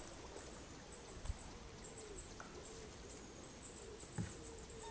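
A pigeon cooing in a low, repeated phrase, with many short, high chirps of small birds above it and a few soft knocks.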